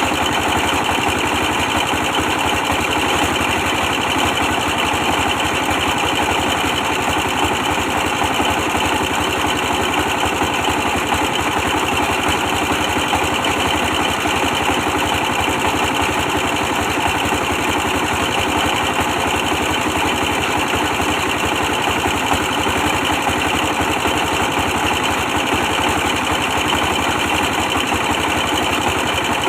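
Old 24 hp stationary diesel engine running steadily, driving a brick press machine.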